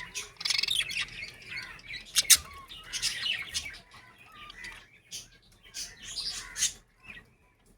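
Budgerigars chattering and chirping in quick, irregular bursts, with a couple of sharp, loud calls a little over two seconds in.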